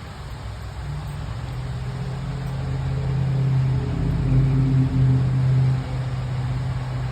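Heavy rain falling, with a steady low hum that swells and cuts off suddenly near the end.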